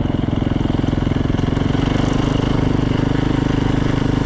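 Freshly rebuilt Yamaha YZ450 dirt bike's single-cylinder four-stroke engine running at low, steady revs with a fast, even pulse.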